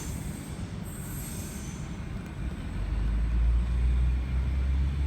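Tangara electric train running into the platform: a low rumble that grows louder from about halfway in.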